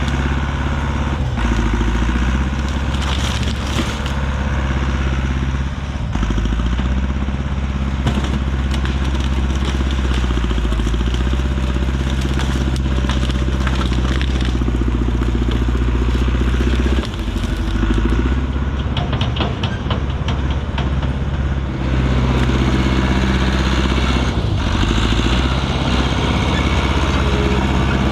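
Heavy machine engine running steadily under load, with bouts of crackling and snapping as brush and branches are crushed. The engine note dips briefly twice.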